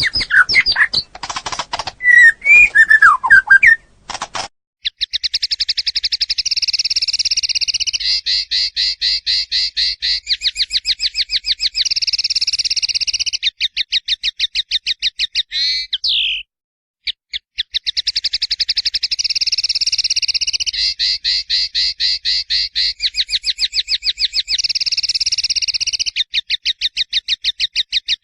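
Songbird song: a short varied run of whistled notes, then long phrases of a rapid, evenly repeated trill, with short breaks between phrases and a brief pause around the middle.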